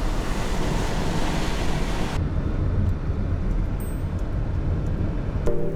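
Car driving on a snowy road: steady tyre and road noise over a low rumble. The hiss drops away sharply about two seconds in, leaving the low rumble, and music comes in right at the end.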